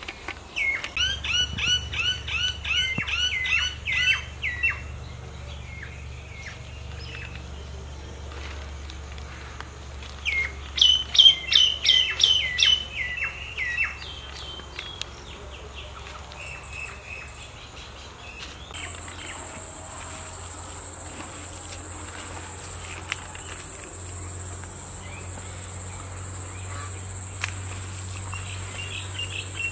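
Wild birdsong: two runs of quick, repeated chirping notes, each lasting a few seconds, one near the start and one about ten seconds later. A steady high-pitched insect trill runs underneath and grows fuller about two-thirds of the way through.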